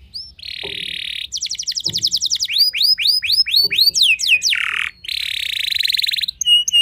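Domestic canary singing a long varied song: a rapid trill, then a fast run of repeated notes and a series of quick downward-sweeping whistles, a short break about five seconds in, then a long rolling trill.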